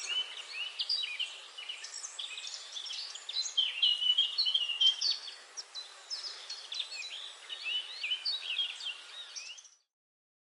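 Many birds chirping and calling over one another in a dense chorus, cutting off suddenly near the end.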